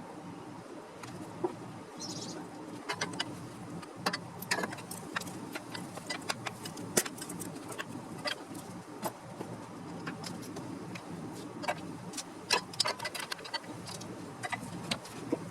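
Irregular light clicks and knocks, some sharp, over a steady low hum; a brief high chirp about two seconds in.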